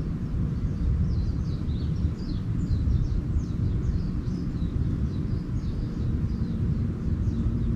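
Small birds chirping in quick, short falling notes, several a second, over a steady low rumble that is the loudest part of the sound.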